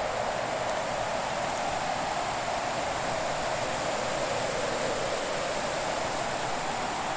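Fireplace ambience: a steady rushing hiss with a few faint, sparse crackles.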